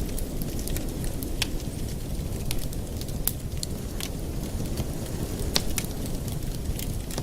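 Wood fire burning in a fireplace, crackling with sharp pops at irregular intervals over a steady low rumble; one louder pop comes about five and a half seconds in.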